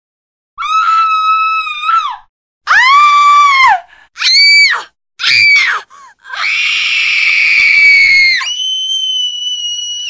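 A woman screaming: four shorter high-pitched screams, then a long scream that jumps to a higher, piercing held note near the end.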